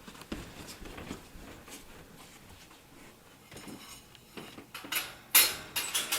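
Wire parrot cage being handled: faint scattered clicks, then a burst of louder metallic clattering and rattling about five seconds in.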